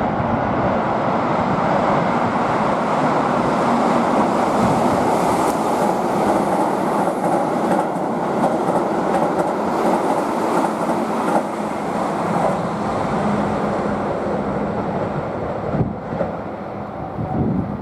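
Keihan electric train running along the platform, a loud steady rumble of wheels on rails with some clatter, easing off near the end.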